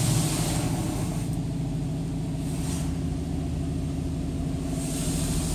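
Heard from inside the car's cabin, the idling engine's steady low hum. The car wash's hiss of spray on the car fades out within the first second and builds again near the end.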